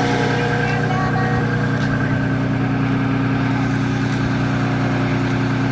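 Motor vehicle engine idling: a steady, even hum that holds unchanged throughout.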